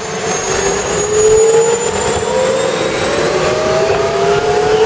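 Bell UH-1 Huey's Lycoming T53 turboshaft engine spooling up on start: a turbine whine climbing slowly in pitch, with a fainter high whistle above it.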